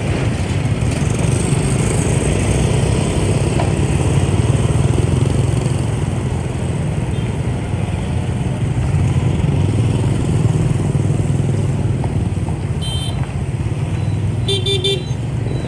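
Motorbike traffic heard from a moving motorbike: a steady engine and road rumble. Short horn beeps come about thirteen seconds in and again just before the end.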